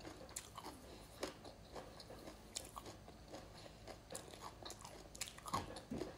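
A person chewing crisp raw food close to the microphone, with irregular crunches throughout and a slightly louder cluster of them late on.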